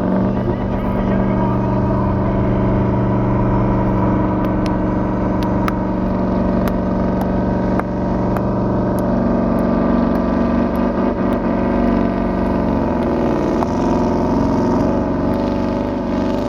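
Scania 143's V8 diesel engine running loud and steady under heavy load while pulling the sled. About thirteen seconds in, its note shifts and wavers.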